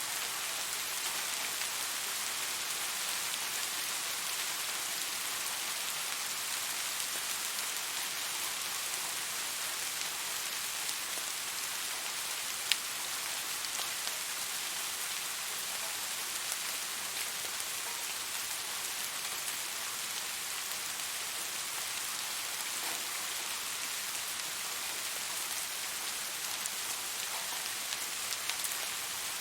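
Steady rain falling on a surface, an even hiss with scattered drop ticks and one sharper tick about halfway through.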